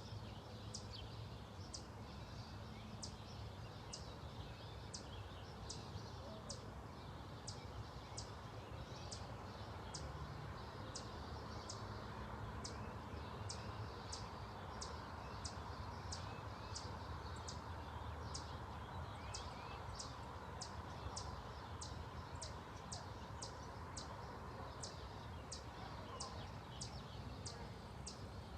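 A bird calling over and over: a short high note sliding downward, repeated evenly about one and a half times a second, over a low steady rumble.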